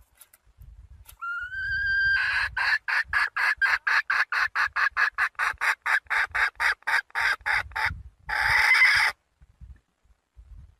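Young red junglefowl hen calling to a rooster. A rising note is followed by a fast, even run of clucks, about four a second for some six seconds. It ends in one longer, harsher note.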